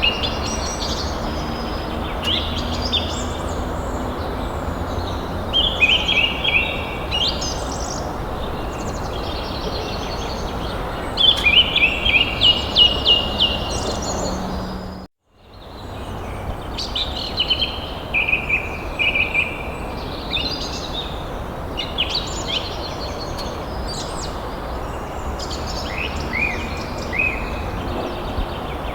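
Wild birds chirping and calling in quick runs of repeated notes over a steady background noise. The sound cuts out completely for a moment about halfway through.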